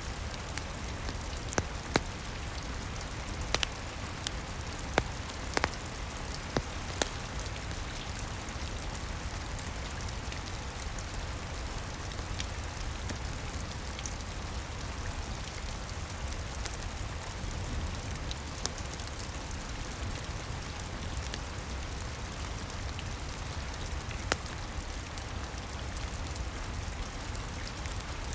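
Steady rain with occasional sharp pops from a crackling wood fire: a cluster of pops in the first seven seconds and a couple more later on.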